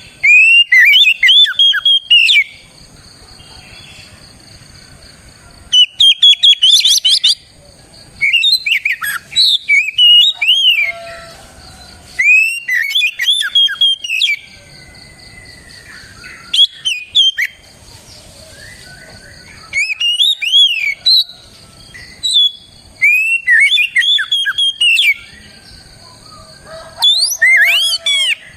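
Oriental magpie-robin (kacer) singing loudly: rich whistled phrases of sweeping notes, each lasting one to two seconds, repeated about eight times with short pauses between.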